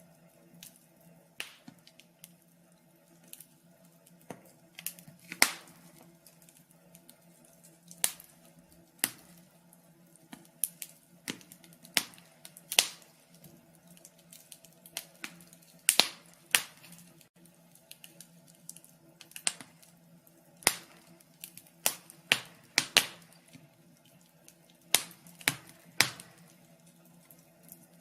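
Wood fire burning in a fireplace, crackling with irregular sharp pops and snaps, a few a second, over a faint steady low hum.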